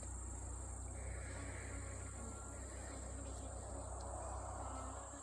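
Honeybees buzzing around an opened hive, a steady hum, with a low rumble underneath that cuts off near the end.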